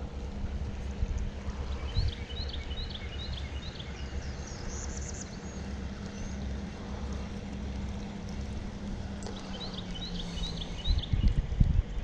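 Creek water and a low outdoor rumble around a kayak, with a faint steady hum underneath. A bird twice sings a short run of four or five quick high chirps, about two seconds in and again near the end, with a brief higher trill between. A few knocks come near the end.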